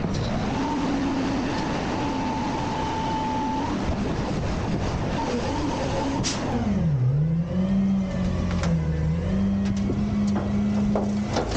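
Autocar/Heil Freedom garbage truck's engine running at raised revs, with a steady high whine over it for the first few seconds. A sharp clack comes about six seconds in, then the engine note dips and climbs back to a steady, higher pitch.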